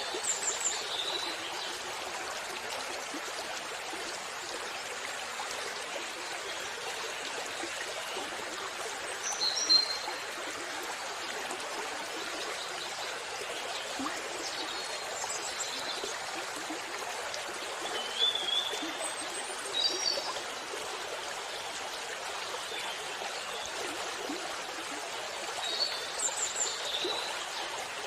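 Waterfall: a steady rush of falling, splashing water. Short high bird chirps come through a few times.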